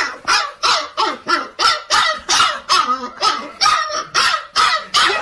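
A dog barking fast and steadily, about three sharp barks a second without a break.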